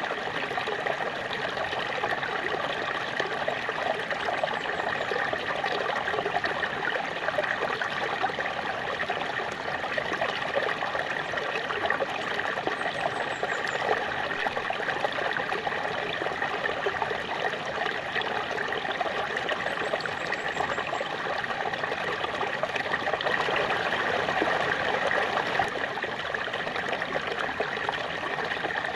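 Water of a small waterfall splashing and running steadily, an even rushing sound without breaks.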